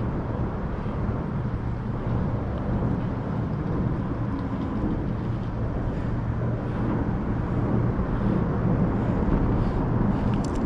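Steady low rumble of road traffic with a faint constant hum.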